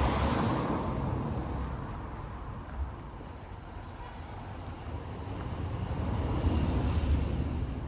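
Cars passing on a street: a steady tyre-and-engine noise swells and fades, loudest at the start, then swells again near the end.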